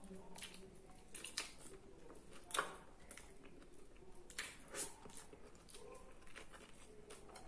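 Eating noises from a person eating roast chicken and rice with his hands: chewing and mouth smacks, heard as scattered short clicks, the loudest about two and a half seconds in.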